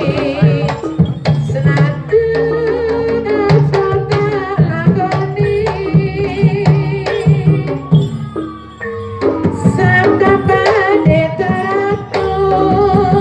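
Live jaranan (kuda lumping) accompaniment: Javanese kendang hand drums playing a steady, driving pattern under held melodic instrument tones, with a voice singing over it. The drumming drops away briefly about eight seconds in, then resumes.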